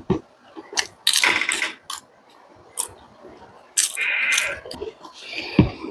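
A person eating close to the microphone: chewing and mouth smacks, with sharp clicks and a few short noisy bursts, the longest about a second, four seconds and five and a half seconds in.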